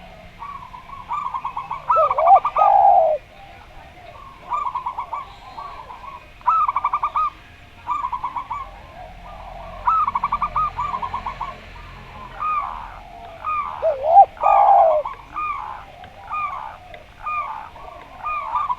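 Doves cooing: a zebra dove (perkutut) gives repeated fast, rattling trills of staccato coos. Louder swooping coos from a turtle dove (derkuku) come in twice, and a quick series of short coos follows near the end.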